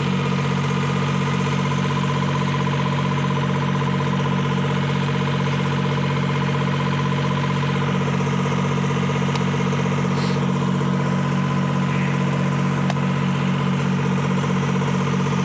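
Detroit Diesel 3-71 two-stroke three-cylinder diesel power unit running steadily at constant speed, with no load on it.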